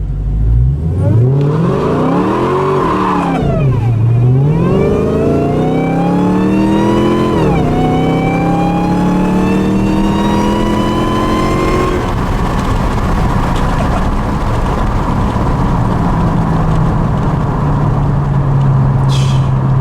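2018 Dodge Challenger SRT Hellcat's supercharged 6.2-litre Hemi V8 under hard acceleration in its 500-horsepower mode, spinning the tires. The revs climb, sag back, climb again and drop sharply at an upshift about seven and a half seconds in, then rise slowly until the throttle eases about twelve seconds in, after which the engine runs steady.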